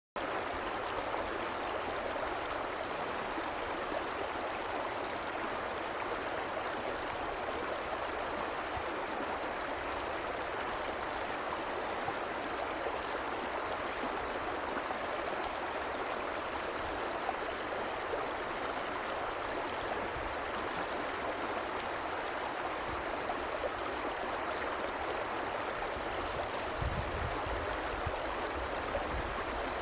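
Fast-flowing stream rushing steadily.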